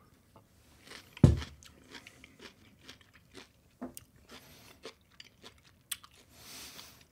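A person biting into a pickled peppadew pepper, a sharp bite about a second in and the loudest sound, then chewing it with a run of small crunches.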